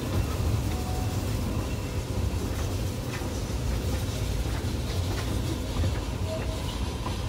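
Steam train running, a steady low rumble with a few faint clicks.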